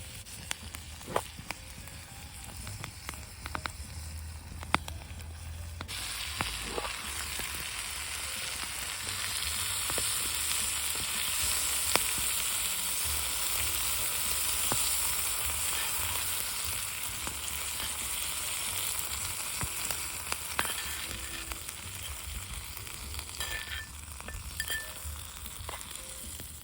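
Meat sizzling on a thick iron griddle plate over a campfire, with scattered sharp pops. The sizzle jumps up about six seconds in and slowly dies down near the end.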